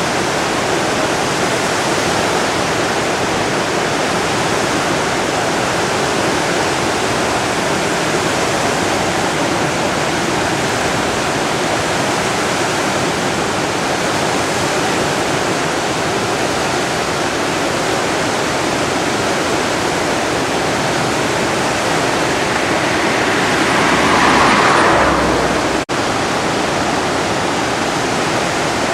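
The Driva river in heavy flood, its fast water rushing steadily and loudly. About 24 s in a louder swell rises for a couple of seconds, and there is a brief dropout just after.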